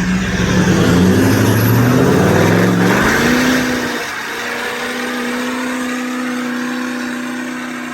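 A vehicle engine revving up, its pitch climbing for about three seconds, then holding a steady note a little more quietly.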